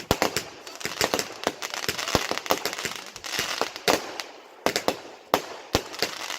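Fireworks going off: an irregular rapid series of sharp bangs over continuous crackling, with a few heavier bangs standing out.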